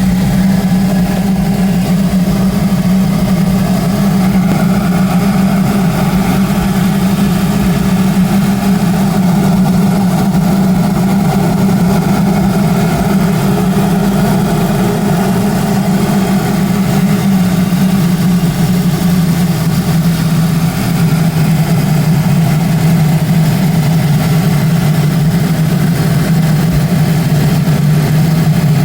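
Audi A4 B7's turbocharged 2.0 TFSI four-cylinder (BWT) engine idling steadily just after startup, carrying the strange noise that appears for about the first 60 seconds of running and then goes away. The idle drone drops slightly in pitch a little past halfway.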